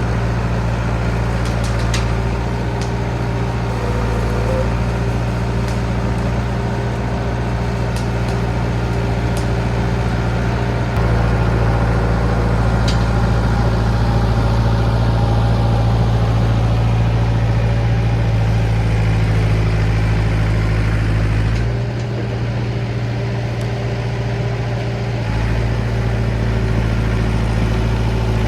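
John Deere 450B crawler dozer's diesel engine running steadily, rising in level about eleven seconds in and easing off for a few seconds a little past the twenty-second mark. A few faint sharp clicks sound in the first half.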